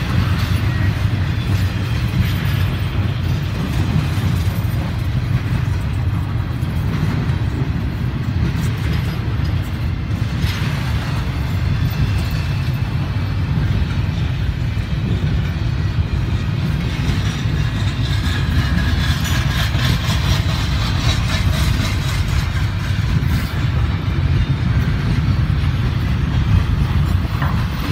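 Empty intermodal well cars of a freight train rolling past: a steady low rumble of steel wheels on the rails.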